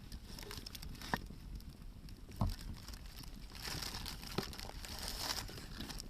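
Hardwood fire burning, crackling with a few sharp pops, the loudest about two and a half seconds in, and a busier stretch of crackling a little before the end.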